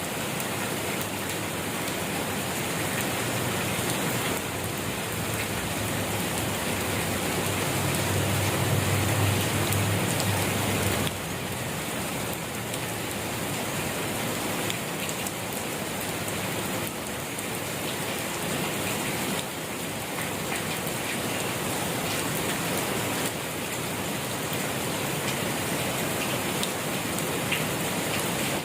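Steady rain falling, a dense even patter of drops, with a low rumble underneath that swells from about four seconds in and stops abruptly a few seconds later.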